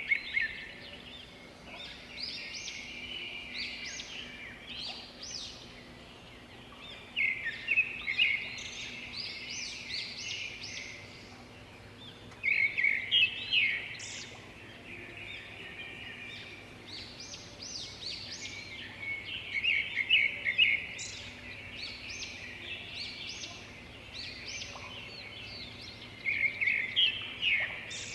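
Songbird singing in repeated phrases about every six seconds. Each phrase opens with a quick, loud run of notes and trails into a twittering of shorter, higher notes.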